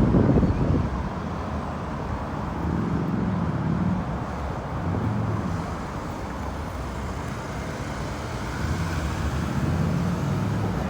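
Road traffic going by: vehicle engines and tyre noise, loudest right at the start and swelling again near the end as more vehicles pass.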